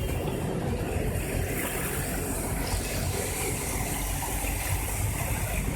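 Steady rumble of vehicle engines mixed with the wash of water, at an even level throughout.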